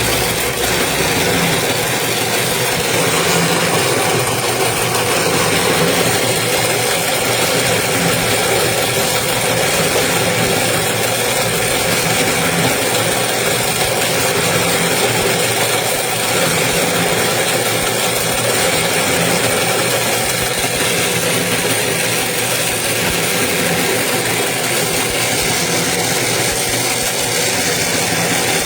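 Toroidal transformer winding machine running steadily, its motor giving an even mechanical hum with a faint rattle.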